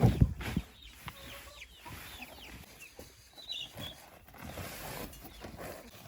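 Domestic chickens clucking, with a few heavy thumps in the first half-second and a short high chirp about three and a half seconds in.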